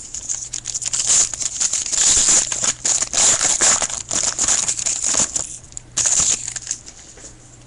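Foil trading-card pack wrapper being torn open and crinkled, a dense crackling that runs for about six seconds and stops shortly before the end, over a faint steady electrical hum.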